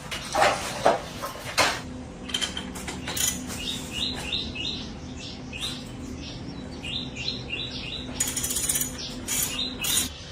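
Metal clinking and rattling of tools and small bicycle parts being handled, a series of sharp knocks, with two quick runs of short high ticks and a faint steady hum underneath.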